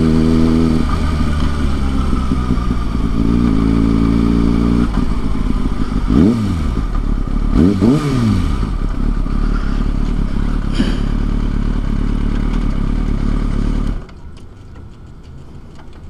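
Kawasaki ZX-6R inline-four sport bike engine idling, blipped twice midway so the revs rise and fall back quickly, then switched off near the end.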